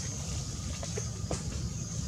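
Outdoor background with wind rumbling on the microphone, and a few faint short squeaks around a second in.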